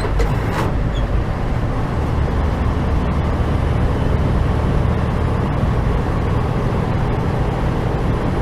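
Steady engine and road drone inside a moving truck's cab, a continuous low rumble with no change in pace.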